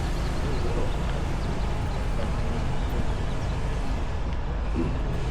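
Steady low rumble of outdoor background noise, with no separate events standing out.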